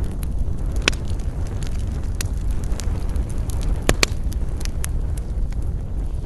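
Campfire burning: wood crackling with scattered sharp pops, the loudest a close pair about four seconds in, over a steady low rumble.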